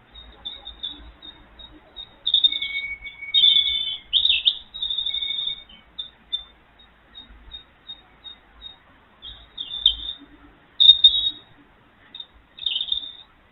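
Small garden birds singing and chirping: repeated short high notes and twittering phrases, busiest a couple of seconds in, with a sharp call near the middle and another phrase near the end.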